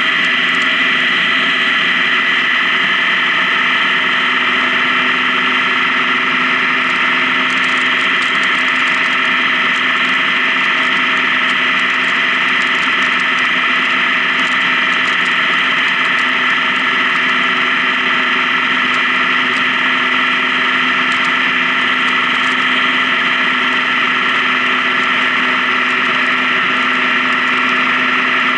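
Honda Gold Wing motorcycle engine running at a steady cruising speed, its pitch and loudness holding even throughout.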